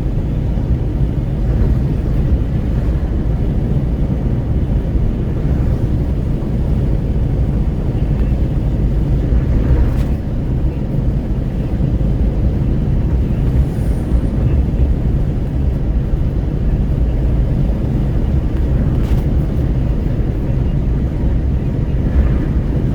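Wind buffeting through an open car window at highway speed, mixed with steady road and tyre noise, heard inside a Renault Kwid's cabin. A steady, deep rumble with no change in speed.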